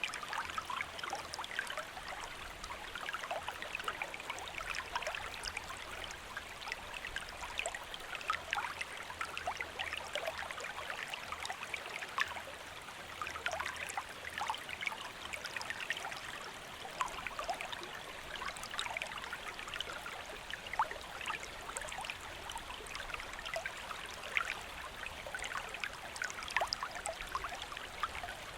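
Shallow stream flowing steadily, a continuous splashing and trickling over stones.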